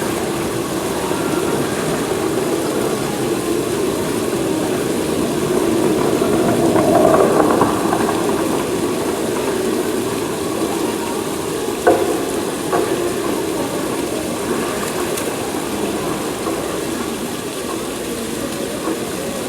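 Steady rush of a waterfall pouring into a pool, with a single knock about twelve seconds in.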